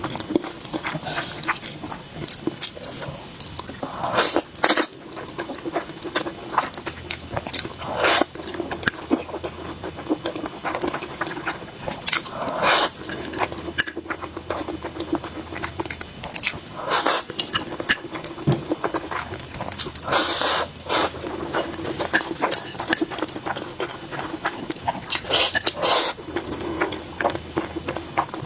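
Close-miked chewing and wet mouth sounds of someone eating, with a steady patter of small clicks and louder smacking bursts every few seconds.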